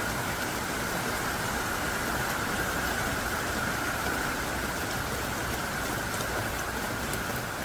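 Heavy rain pouring down steadily: an even, unbroken hiss of drops, with a few faint separate drop ticks near the end.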